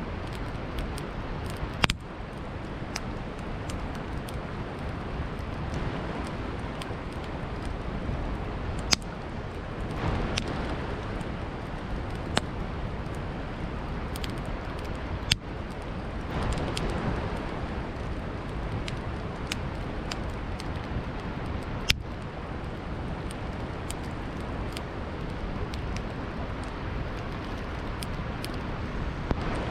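Campfire burning with a constant light crackle and four loud, sharp pops from the burning wood, over a steady rushing background.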